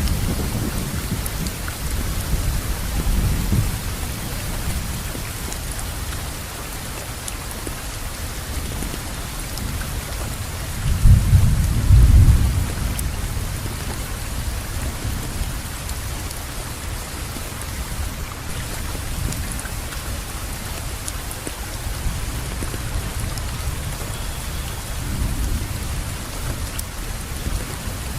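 Steady rain falling, with low rolling thunder near the start and a louder rumble of thunder about eleven seconds in.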